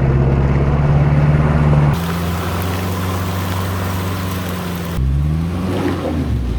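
1997 Jeep Cherokee XJ's 2.5-litre VM Motori turbo diesel engine running, heard in short clips cut together so the engine note jumps abruptly twice. About five seconds in, the engine revs up.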